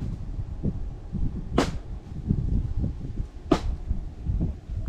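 An axe chopping sarã firewood: two sharp blows about two seconds apart.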